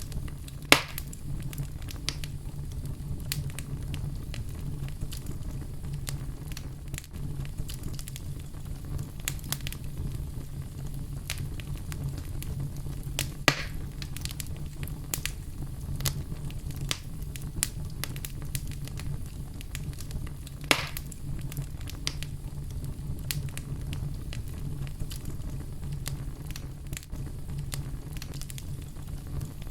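Wood fire burning in a fireplace: a steady low rumble of flames with frequent small crackles and a few louder pops.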